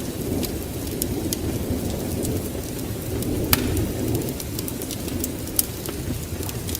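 Wood fire crackling with scattered sharp pops, the loudest about halfway through, over a steady low rumble of rain and thunder.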